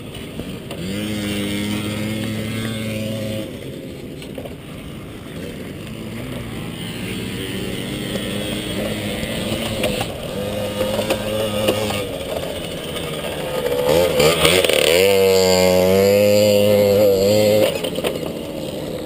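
Motorcycle engine heard from an onboard camera, holding steady revs in several stretches. About fourteen seconds in, the revs climb quickly and hold high, then drop away near the end.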